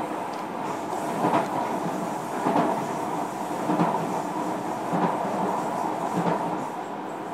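JR Kyushu 305 series electric train heard from inside motor car MoHa 305-106 while running: a steady rumble of wheels on rail, with a clack about every 1.2 seconds as the wheels cross rail joints.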